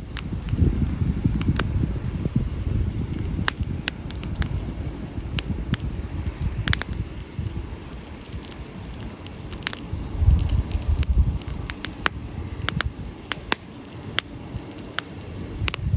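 Wood campfire crackling, with irregular sharp pops and snaps over a low rumble that swells about a second in and again around ten seconds.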